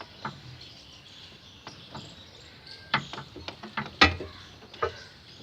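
A run of irregular sharp clicks and knocks from hand tools and metal parts as a drive axle is worked into a car's gearbox. The knocks bunch together about three to five seconds in, and the loudest comes just after four seconds.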